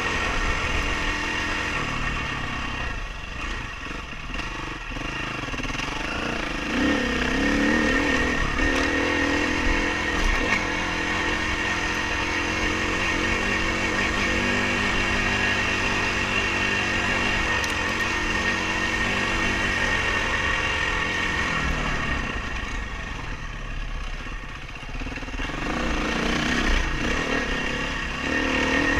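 Dirt bike engine running under way, revving up and easing off as the rider works the throttle. It drops back twice, a few seconds in and again near the end, picking up again each time.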